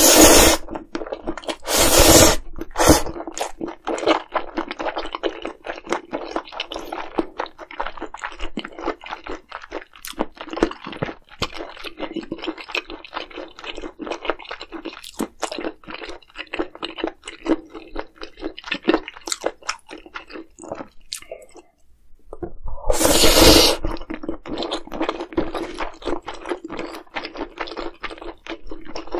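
Close-miked eating: a person chewing and crunching food in many quick, crisp bites, with a few louder, longer noisy bursts near the start and again about 23 seconds in.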